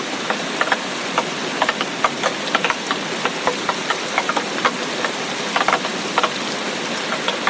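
Heavy tropical-storm rain falling steadily, with frequent sharp, irregular drops striking close by over the constant hiss of the downpour.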